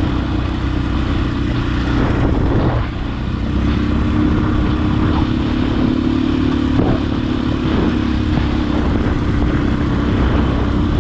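Husqvarna enduro dirt bike engine running under way on a trail, with a brief dip in revs about three seconds in before it picks up again and holds a steady note.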